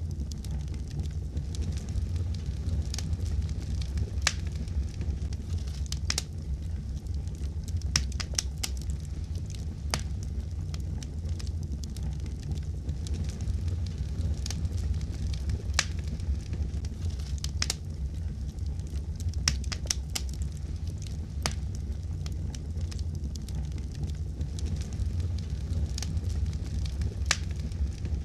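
Fireplace fire crackling, with irregular sharp pops and snaps over a steady low rumble of the flames.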